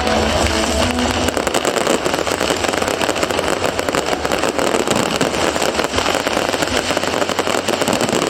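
Fireworks crackling in a dense, continuous barrage of rapid pops, with music briefly audible in the first second.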